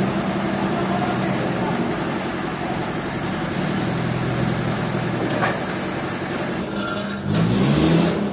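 An engine running steadily, its pitch rising near the end as it speeds up.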